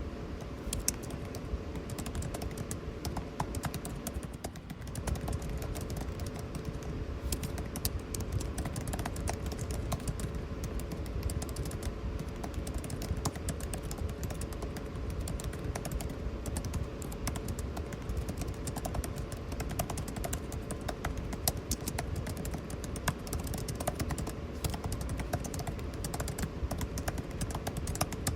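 Typing on a computer keyboard, a quick, irregular stream of key clicks, over the steady hum of air conditioning.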